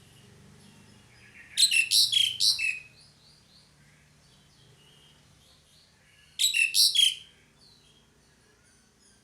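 Pied starling (jalak suren) calling in two loud bursts of rapid notes. The first comes about a second and a half in and lasts over a second; the second, shorter, comes about six and a half seconds in. Faint chirps sound between them.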